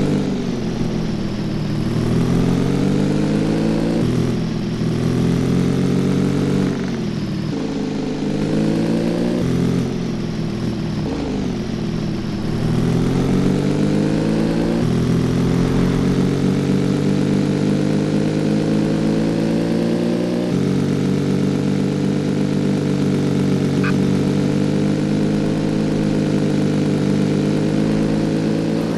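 Cafe racer motorcycle engine under way, its revs falling and climbing with several abrupt changes through the first half, then holding steady at a cruise.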